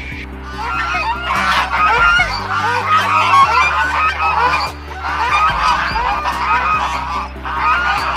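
A flock of birds calling: many short overlapping calls in a dense chorus, over a steady low drone.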